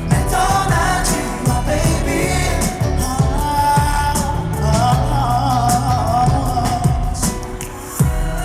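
Live K-pop concert music heard from the audience: a male voice singing a slow melody over the band's backing track with a steady bass beat.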